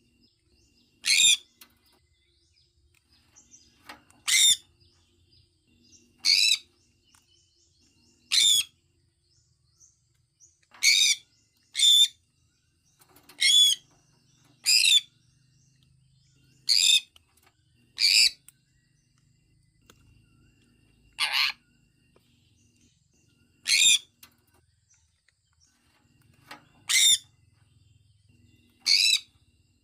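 Sun conure chirping: about fourteen short, sharp, high calls, one every one to three seconds, with near quiet between them.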